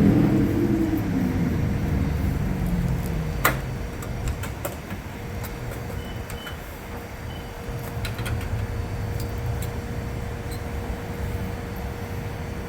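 Jeep Gladiator driving: the engine note falls and fades as it slows over the first few seconds, then a steady low rumble of running and road noise. A sharp click about three and a half seconds in, and a few faint short beeps a little later.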